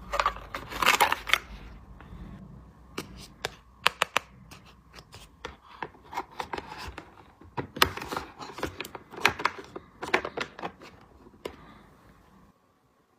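Hands handling small plastic toy pieces and packaging: a string of sharp clicks and taps with some rustling in between, stopping near the end.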